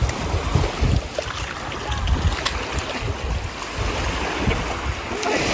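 Wind gusting against the microphone over the steady wash of ocean surf on a beach.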